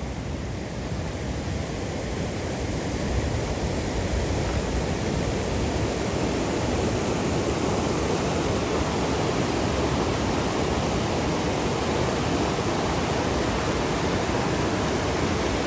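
A waterfall rushing as a steady, dense roar of water, growing louder over the first few seconds and then holding.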